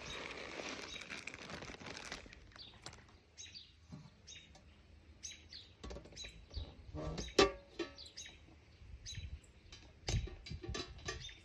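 Birdseed pouring into a bird feeder with a steady hiss for about two seconds, then scattered clicks and rattles of the feeder being handled, with one sharp loud click about halfway.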